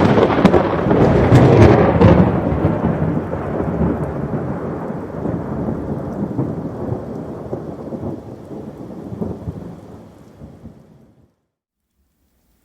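A thunderclap with sharp crackles in the first two seconds, rolling into a long rumble that slowly fades and then cuts off abruptly about eleven seconds in.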